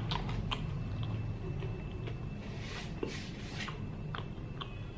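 Close-up biting and chewing of crispy batter-fried breadfruit: a run of short crisp crunches over a steady low hum.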